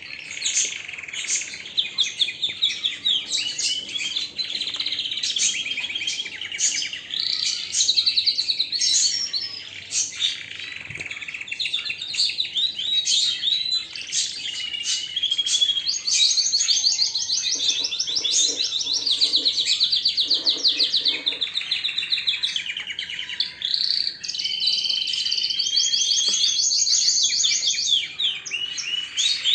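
Domestic canary singing a long, continuous song of fast trills and rolling runs of rapidly repeated high notes.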